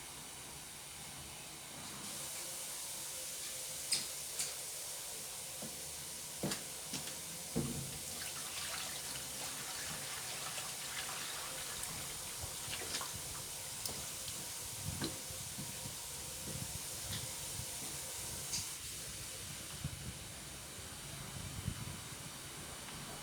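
Kitchen tap running steadily, filling a jug, with the flow coming up about two seconds in. Occasional knocks and clinks of the jug sound over the running water.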